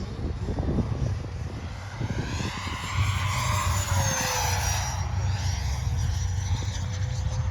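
Electric ducted-fan RC jet (F-22 Raptor model) flying past. Its fan whine swells and drops in pitch as it goes by, about four to five seconds in, then settles and slowly climbs again.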